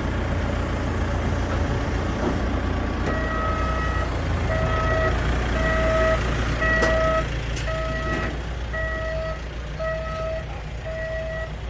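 A heavy vehicle's engine running with a steady low rumble; about three seconds in its reversing alarm starts, beeping evenly about once every three-quarters of a second.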